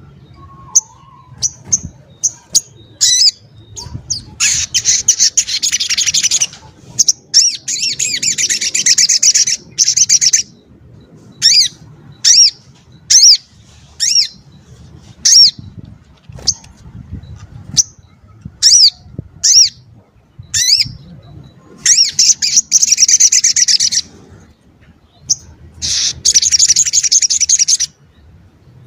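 Sogok ontong (little spiderhunter) singing: sharp, high, downward-sweeping chirps repeated every second or so, broken up by several rapid, dense trills of about two seconds each.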